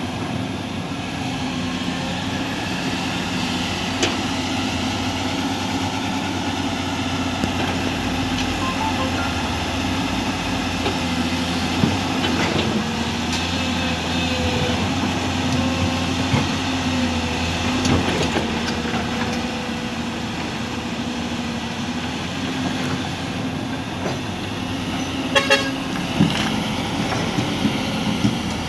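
Heavy construction machine's diesel engine running steadily, with a few sharp knocks or clanks now and then.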